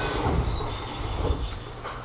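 Aonami Line commuter train standing at a station as its doors close: a sliding rush over a steady low hum, then a knock near the end.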